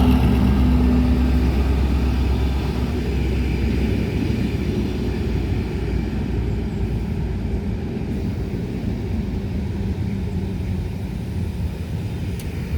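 A pair of Class 73/9 electro-diesel locomotives running on their engines: a steady low rumble with a low hum. The rumble eases after about four seconds as they move off.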